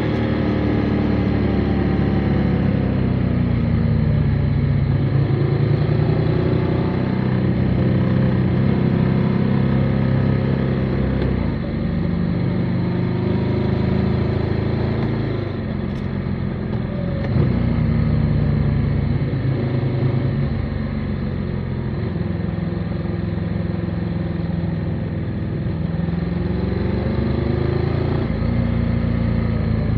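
Motorcycle engine under way, its pitch rising and falling with throttle and gear changes several times.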